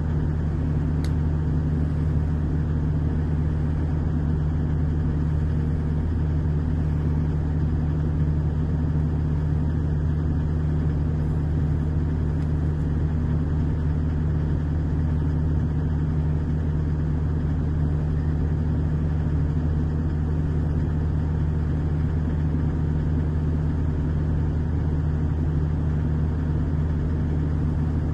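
Digger engine idling steadily: a constant low hum that holds one pitch throughout.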